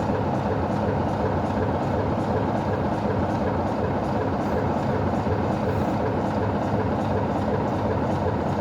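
Heritage train running: a steady engine drone over a continuous rumble.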